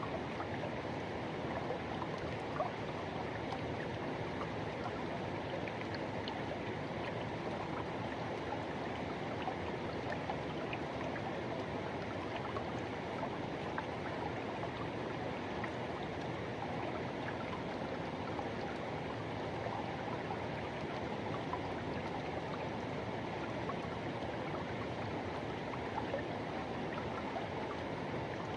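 Forest river water rushing steadily, an even wash of flowing and gurgling water.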